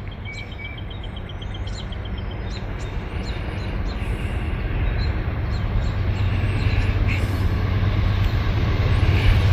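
Low rumble of an approaching diesel freight train, growing steadily louder, with birds chirping faintly.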